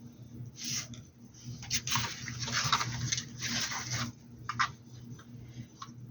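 Scratchy rustling of a paintbrush scrubbing paint onto a hat, one short stroke and then a longer run of strokes, followed by a few light taps. A steady low electrical hum runs underneath.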